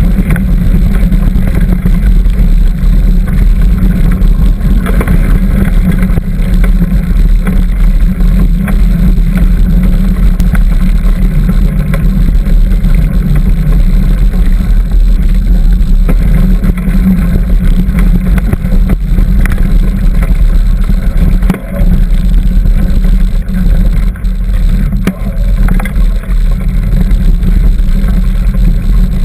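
Loud, steady wind rumble on the microphone of a camera riding along on a mountain bike on a dirt trail, with a few faint knocks from the bike going over bumps.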